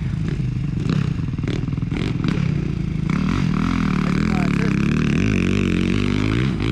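Motocross dirt bike engine on the track, revving up and down repeatedly. There are several sharp knocks and clatters in the first few seconds.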